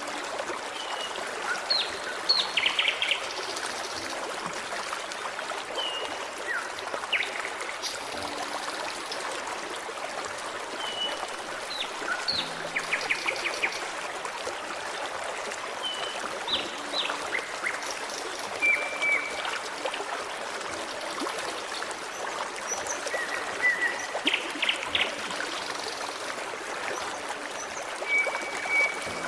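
Forest stream running and trickling steadily, with small songbirds calling over it: short chirps, quick trills and brief whistled notes every few seconds.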